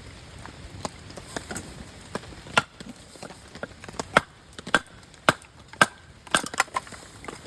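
Dry wooden branches cracking and snapping: a run of sharp cracks, light at first and then louder, coming about every half second from the middle on.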